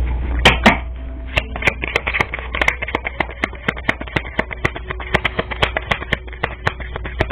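Deck of tarot cards being shuffled by hand: a fast run of sharp card slaps and clicks, about four or five a second, with two louder ones about half a second in. Faint background music plays underneath.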